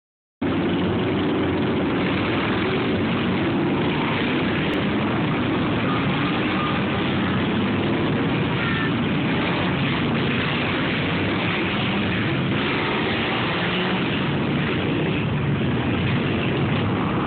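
Motorcycle engines running steadily, starting about half a second in.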